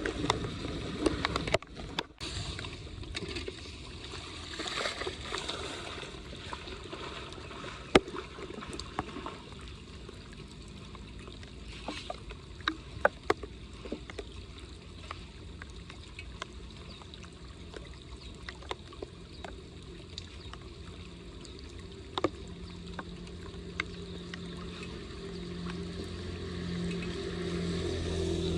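Water running steadily into a street storm drain, with occasional sharp knocks and clicks. A low hum builds near the end.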